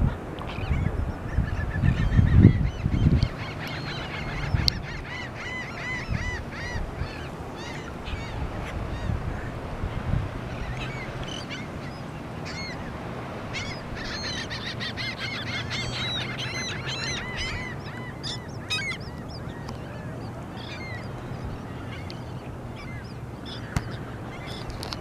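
A feeding flock of gulls and terns calling over and over, many short, harsh calls overlapping in two busy stretches, with some low thumps near the start.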